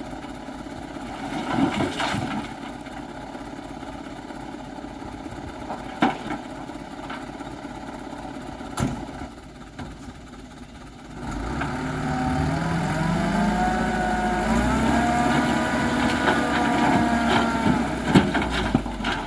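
Dump truck engine running quietly with a few sharp knocks, then about eleven seconds in it revs up and keeps running hard, its pitch rising and wavering.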